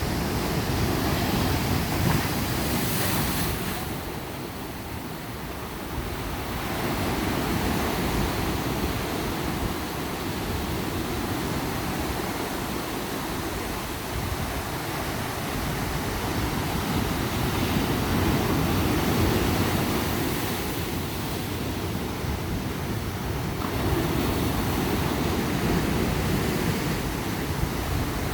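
Ocean surf breaking on a beach, a continuous wash that swells and eases every several seconds, with some wind on the microphone.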